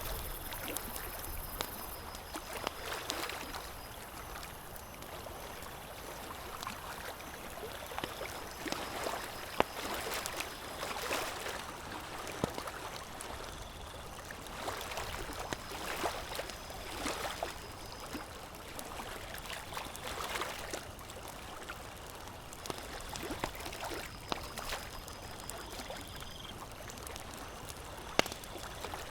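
Campfire crackling, with a few sharp pops, over water lapping in gentle swells every few seconds.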